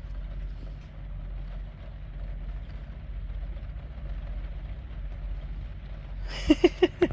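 Diesel air heater running at full setting with a steady low drone. A few short, loud pitched blips come near the end.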